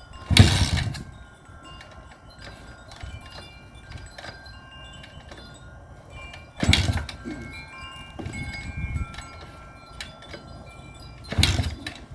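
SAIL 150cc four-stroke pit bike being kick-started three times, each kick a short thump and turnover that does not catch, on full choke after a month unstarted. Wind chimes ring steadily in the background.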